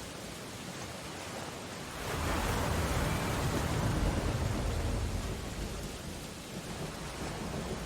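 Steady rain on window glass, with a deep rumbling swell of the storm rising about two seconds in and dying away over about three seconds.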